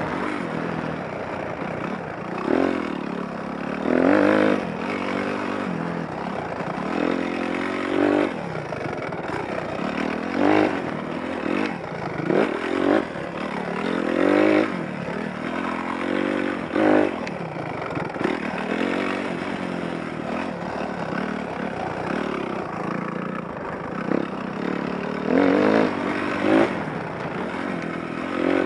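Motocross dirt bike engine heard close up, revved hard in repeated bursts. Its pitch climbs and falls back again and again as the rider opens and shuts the throttle around the track.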